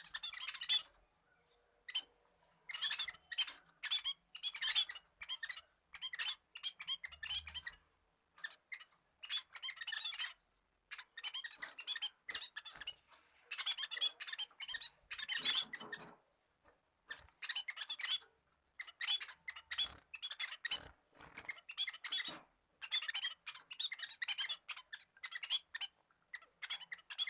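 Bird chirping and chattering in rapid bursts, one after another with short pauses between.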